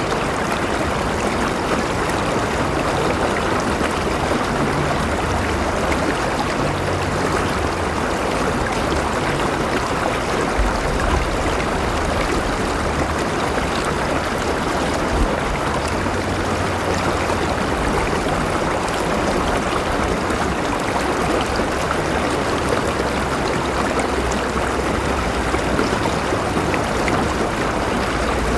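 A river flowing over rocks: a steady, continuous rush of running water with a trickling edge and a low rumble underneath.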